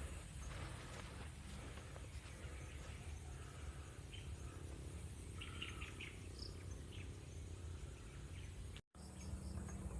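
Nature ambience: a steady background of insects, with a few short bird chirps about halfway through. The sound cuts out completely for a moment near the end.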